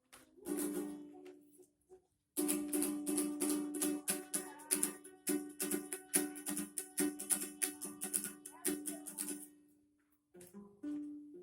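A small stringed instrument strummed by hand, repeating the same chord: a brief strum near the start, then steady quick strumming for about seven seconds, which stops and starts again near the end.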